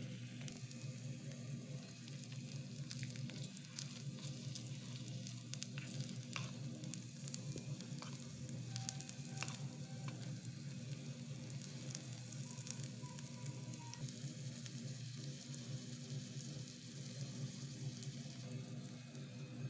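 Sliced onions sizzling and crackling in hot oil in a tiny steel kadai, stirred now and then with a small spoon, over a steady low hum.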